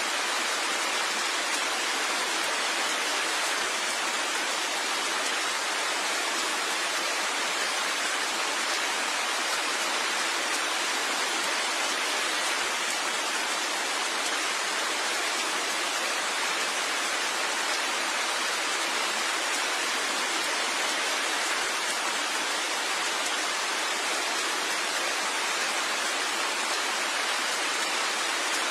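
Steady rain: an even, unbroken hiss with no single drops or other sounds standing out.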